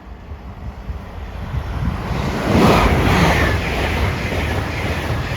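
Express passenger train passing the level crossing at speed: a rising rush of wheel and air noise that peaks about two and a half seconds in and then carries on steadily.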